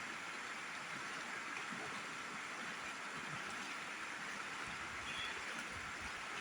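Steady rush of river water flowing over rocks, even and unbroken.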